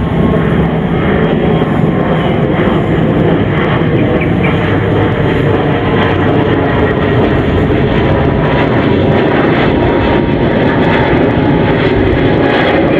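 Airbus A320neo's Pratt & Whitney PW1100G geared turbofan engines running at takeoff thrust, loud and steady.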